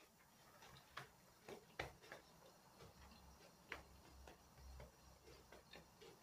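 Faint, irregular mouth clicks and smacks of someone chewing noodles with their mouth closed, a few soft clicks a second with gaps between.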